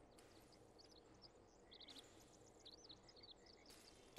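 Near silence: faint room tone with small birds chirping quietly in the background, short repeated chirps that become more frequent from about a second in.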